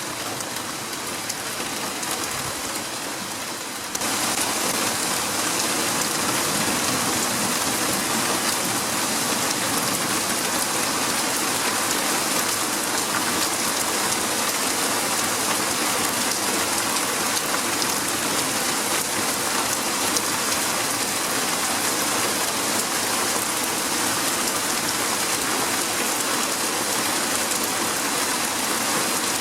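Heavy rain pouring down and splashing on hard surfaces, a dense steady hiss that gets abruptly louder about four seconds in.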